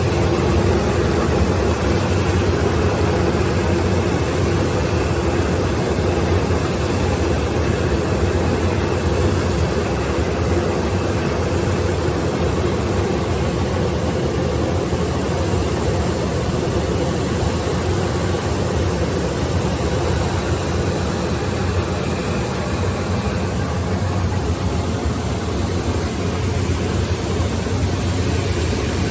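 Six-roll wood sanding machine running steadily: a constant motor hum under an even, rushing noise from the rolls sanding wooden parts.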